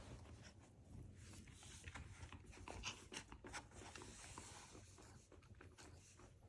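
Faint sounds of a small mini bichon dog close by: light panting with soft clicks and rustles.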